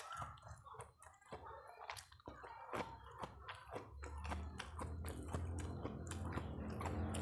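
Close-up chewing and biting of food: wet mouth clicks and crunches, uneven in rhythm. About halfway through, a steady low hum starts and grows louder under the chewing.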